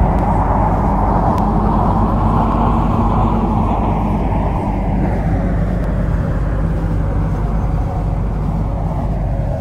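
MTR C-Train electric train running along the track: a steady rumble of wheels on rail and motor hum. The rushing noise slowly lowers in pitch and eases slightly, as a train does when it slows.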